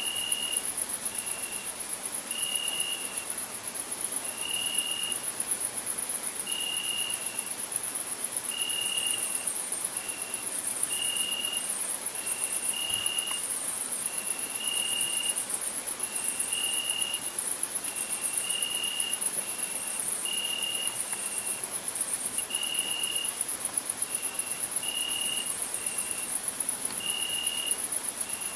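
Crickets singing: a steady, very high-pitched trill with short, lower chirps repeating about once a second, alternating long and short.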